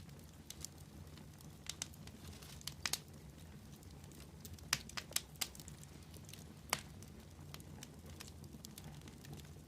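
Wood fire crackling: irregular sharp pops and snaps, a few close together around three seconds in and the loudest around five and seven seconds in, over a steady low rumble.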